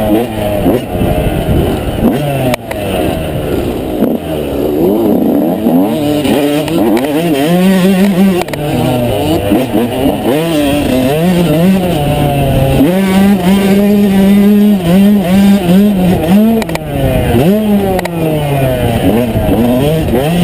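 Yamaha YZ125's single-cylinder two-stroke engine being ridden hard, its pitch climbing and dropping again and again as the throttle opens and closes through the gears. There are a couple of sharp knocks along the way.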